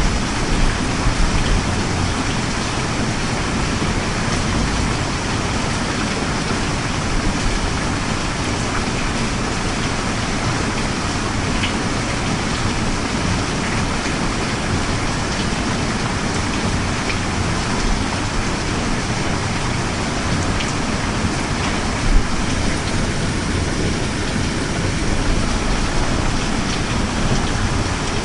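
Steady rain ambience: a continuous hiss of falling rain with faint scattered drop ticks, and one brief low knock about three quarters of the way through.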